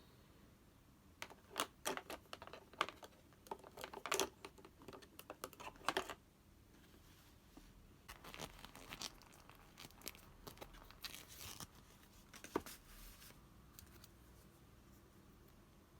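Close-up crinkling and tearing of paper or thin plastic being handled. There are many short sharp crackles for the first several seconds, then softer rustling, and a single sharp click a little before the end.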